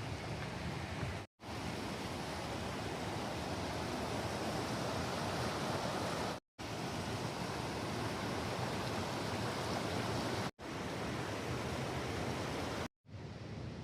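Steady rush of flowing river water over rapids, broken by four brief drops to silence where clips are cut together.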